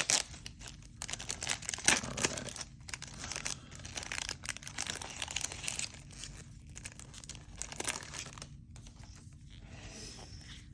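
A 1990 Score football card pack wrapper being torn open and crinkled, in a quick run of crackles and rustles that thins out after about eight seconds.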